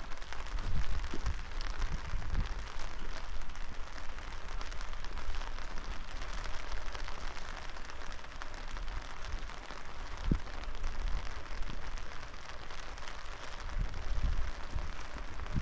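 Steady rain falling, a dense even patter, with occasional low thumps.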